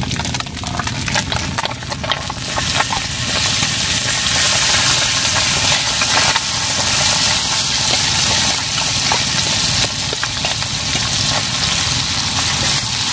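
Oil sizzling in a wok as fried fish and tomato-chilli sambal are stirred and mashed with a metal fork, the fork clicking and scraping against the pan. The sizzle grows louder about three seconds in.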